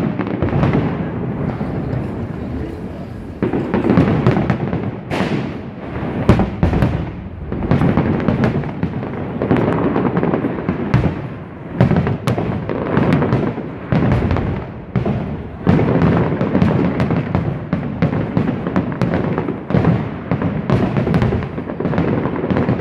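Fireworks display: aerial shells bursting in a dense, continuous series of loud bangs and crackles, several every few seconds.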